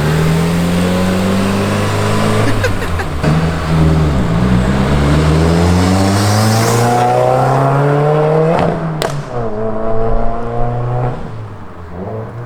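Subaru WRX turbocharged flat-four through a muffler-delete axle-back exhaust, accelerating hard. The revs climb for a few seconds at a time and drop sharply three times at gear changes. A sharp crack comes as the revs fall about three-quarters of the way in.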